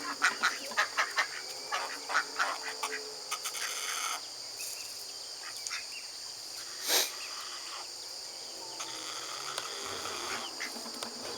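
Ducks quacking in a quick run of short calls over the first few seconds, then fading, over a steady high insect drone. One sharp loud click about seven seconds in.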